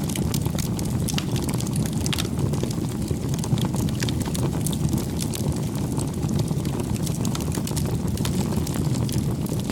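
Campfire burning: a steady low rush of flames with frequent sharp crackles and pops from the burning wood.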